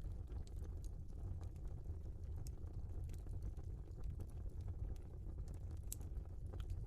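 Wood fire burning in a fireplace: a steady low rumble of flames with scattered crackles and pops, one sharper pop near the end.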